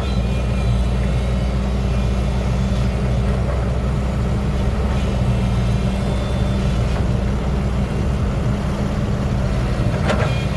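Diesel engine of an XCMG 140 excavator, a Cummins, running steadily with a deep, even rumble.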